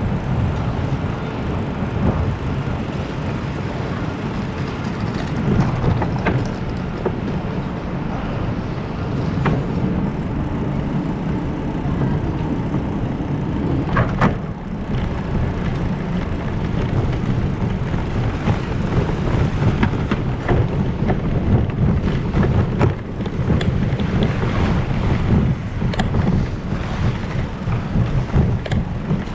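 Heavy wind rumble on the microphone and road noise from a moving bicycle, with scattered short clicks and rattles throughout.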